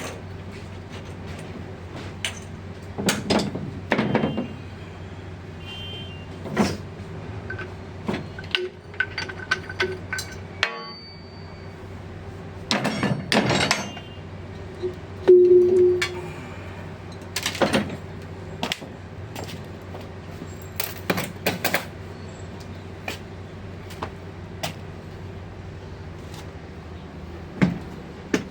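Irregular hammer blows and metal clanks on a seized alternator rear bearing, over a steady hum. The bearing is stuck fast, fused inside its housing.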